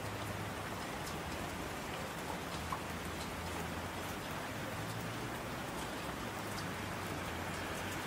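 Steady rain falling, an even hiss with scattered sharp drop ticks and a low steady undertone.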